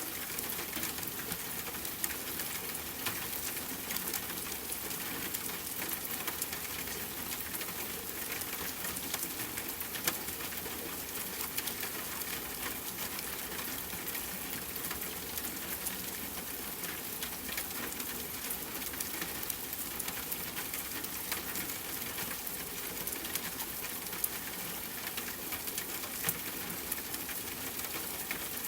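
Steady rain hiss with scattered sharp pops and ticks from a crackling campfire.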